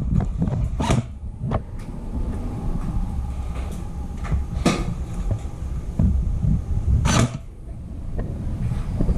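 Steady low rumble of wind and movement on the microphone, broken by a few sharp cracks spaced a second to a few seconds apart, the loudest near the end.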